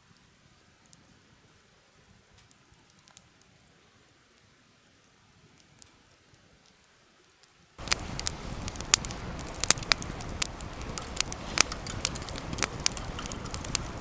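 Near silence with a few faint ticks, then about eight seconds in the crackling of a campfire starts abruptly: a steady hiss with sharp, irregular pops.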